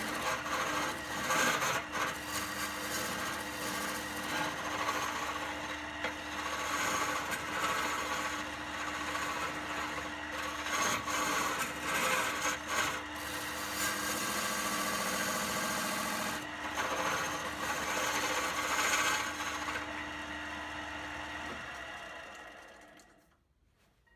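Wood lathe running with a steady motor hum while a tool scrapes and rasps the spinning wood, in uneven strokes. The lathe shuts down near the end.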